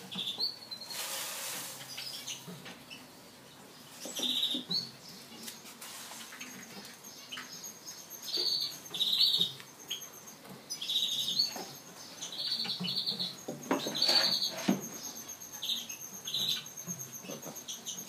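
Small birds chirping: short, high chirps repeated at irregular intervals, with a brief hiss about a second in.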